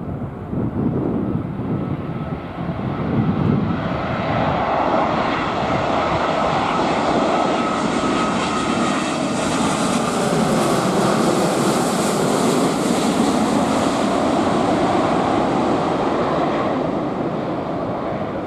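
Jet airliner passing close by, its engine noise building to a loud peak about two-thirds of the way through, then fading away.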